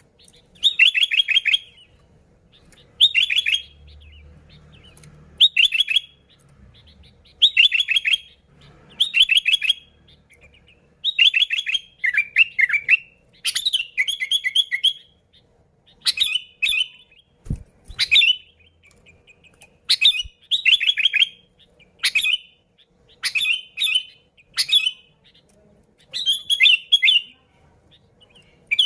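Sooty-headed bulbul (kutilang) calling vigorously in short, bubbly chattering phrases, repeated about every one to two seconds. A single low knock is heard about two-thirds of the way through.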